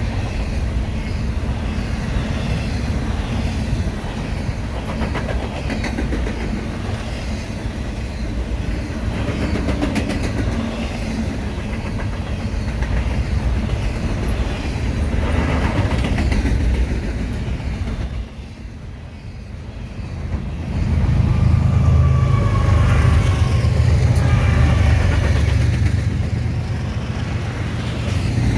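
Freight train of double-stack and intermodal cars rolling past, with steel wheels clicking over rail joints and rattling. The sound dips briefly about two-thirds of the way through, then a louder low rumble takes over.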